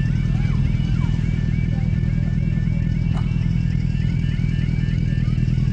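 Level crossing audible warning alarm sounding continuously, a repeating two-tone warble cycling about twice a second, because the crossing has failed with its barriers down. A low, steady engine rumble from road traffic lies under it and is the loudest part.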